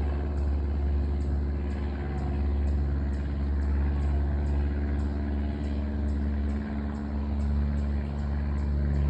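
Small propeller airplane flying overhead, its engine droning steadily with a deep low rumble.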